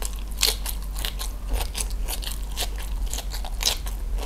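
Close-miked chewing of a mouthful of grilled chicken and raw cabbage leaf: a quick, irregular run of wet crunches and mouth clicks over a steady low hum.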